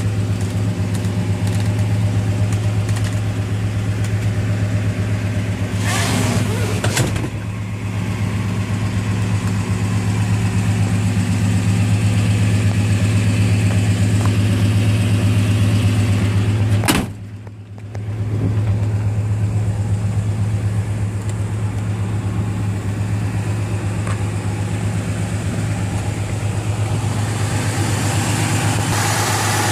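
1968 Plymouth Road Runner's V8 idling steadily with an even low hum. There is a sharp knock and a brief drop-out a little past halfway.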